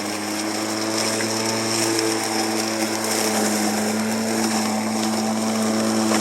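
Ego 21-inch 56-volt battery push mower running with a steady hum, its blade cutting through very tall grass.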